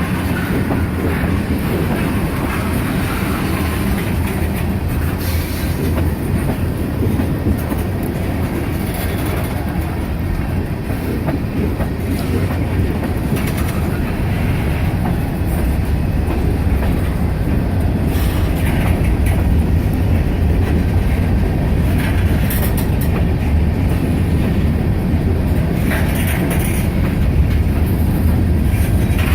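Freight cars of a slow CSX manifest train rolling past, a steady heavy rumble with the wheels clicking over rail joints.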